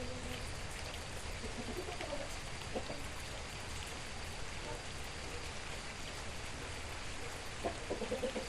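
Steady rain falling and pattering on surfaces, with a few short chicken clucks in the first couple of seconds and again near the end.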